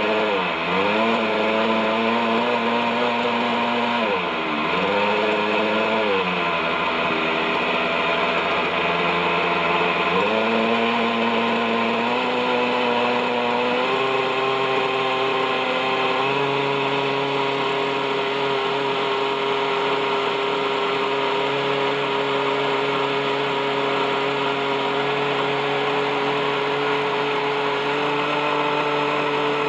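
OS 61SF two-stroke glow engine of an RC helicopter running at hovering power. Its revs dip and recover twice in the first few seconds, climb in steps, then hold steady. The engine was revived after more than thirty years without maintenance and still has rusty bearings.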